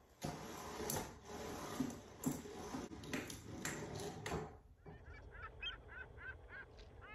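Rustling handling noise with several sharp clicks for the first few seconds, then, about five seconds in, a bird calling in a quick run of short repeated notes.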